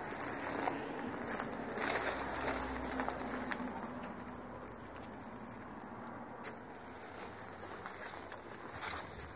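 A bird cooing, one low, drawn-out call in the first few seconds, over outdoor background noise and scattered crackling footsteps through dry weeds.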